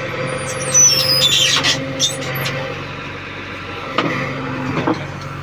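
Heavy diesel machinery engine (tractor or JCB) running steadily, with a few brief high-pitched squeals in the first two seconds and a couple of knocks near the end.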